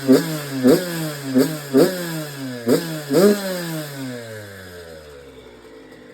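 Yamaha YZ dirt bike engine being blipped, about six quick revs with the revs dropping back after each, just after its carburetor was cleaned to cure a throttle stuck wide open. After the last blip, about three seconds in, the engine note sinks steadily and dies away.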